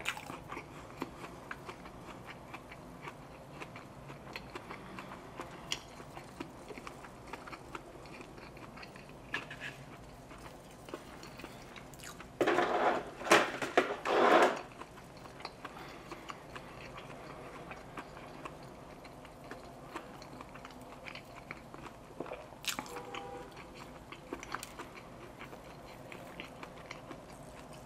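Close-miked chewing of a mouthful of food: soft, wet clicks and smacks from the mouth. About halfway through comes a much louder, rough burst lasting about two seconds.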